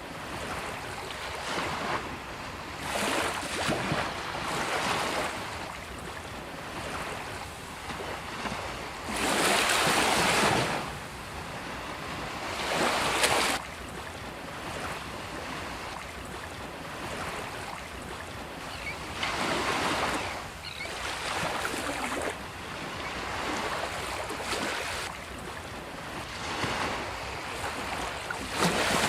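Sea waves breaking and washing up a beach, the surf rising and falling in repeated surges, the loudest about ten seconds in and another shortly after.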